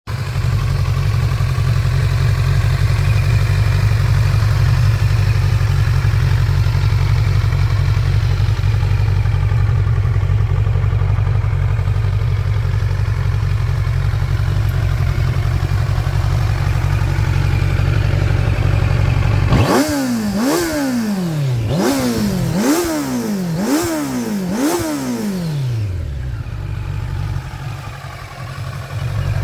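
Kawasaki Z900's 948 cc inline-four motorcycle engine idling steadily through its exhaust, then revved in about five quick throttle blips, each rising and falling, before settling back to idle.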